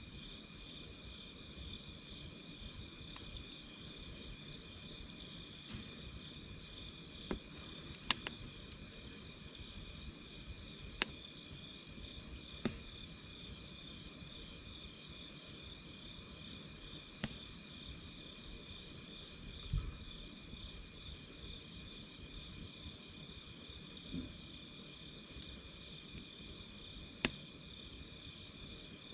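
Campfire crackling: a handful of sharp pops at uneven intervals of a few seconds, the loudest about eight seconds in. Under it runs a steady, high, pulsing trill of insects such as crickets. No music box is heard.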